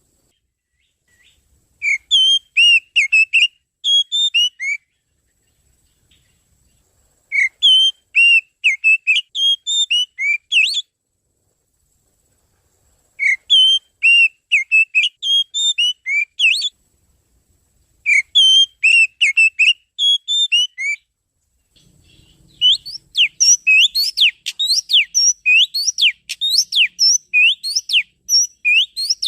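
Oriental magpie-robin (kacer) song played as a lure call: four clear whistled phrases of about three seconds each with short pauses between, then a longer run of quick, sweeping notes near the end.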